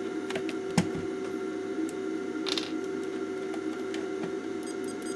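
A few light clicks and taps from handling the opened timer plug's plastic case and small parts, the sharpest just under a second in, with a brief rustle midway, over a steady background hum.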